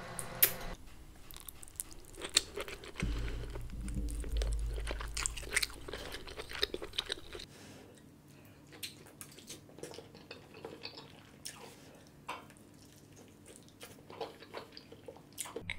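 Close-miked eating sounds: wet chewing, slurping and lip smacks of king crab meat dipped in creamy alfredo sauce, full of short sharp mouth clicks. A low rumble sits underneath for a few seconds near the start.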